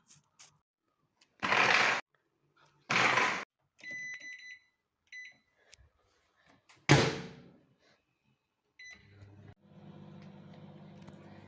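Microwave oven being set and started: two short noisy bursts, a few short electronic beeps and a sharp knock, then the oven's steady low hum as it starts running about nine and a half seconds in.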